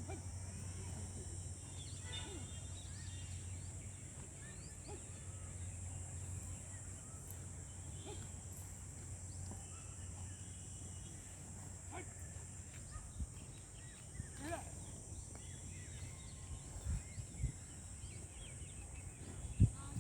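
Outdoor rural ambience: a steady high-pitched drone with scattered short bird chirps, and a few low thumps in the last several seconds.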